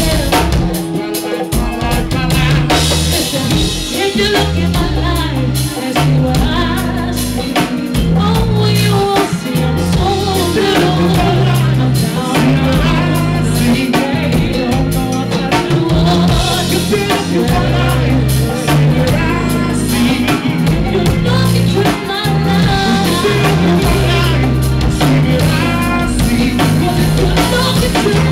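A live band playing, with drum kit, a bass line and a singer.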